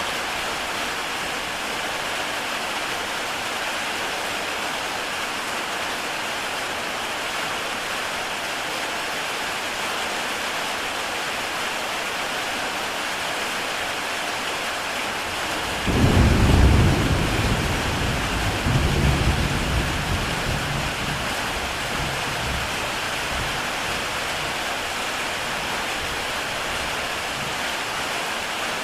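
Steady heavy rain on a tile roof. About sixteen seconds in, a deep roll of thunder breaks in suddenly, swells a second time a few seconds later and fades away under the rain.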